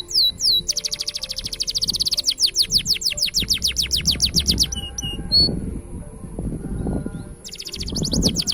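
Green canary singing: rapid high trills of repeated down-slurred notes, broken by a pause of a couple of seconds about halfway, with the trill starting again near the end. A low rumbling noise sits under the pause.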